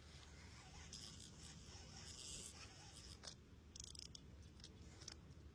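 Near silence: faint rustling and a few light clicks over a low background hum.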